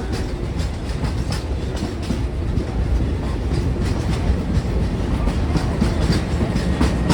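Steam excursion train's passenger car rolling along the track, heard from on board: a steady low rumble of wheels on rails with irregular clicks and rattles.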